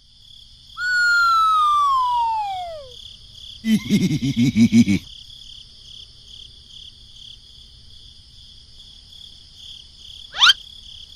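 Steady cricket chirping ambience with cartoon sound effects laid over it. A long falling whistle starts about a second in, a second-long burst of rapid choppy pulses follows around four seconds, and a quick rising whistle comes near the end.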